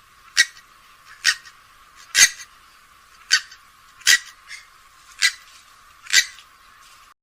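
Grey-headed swamphen giving short, sharp single calls, seven of them about a second apart.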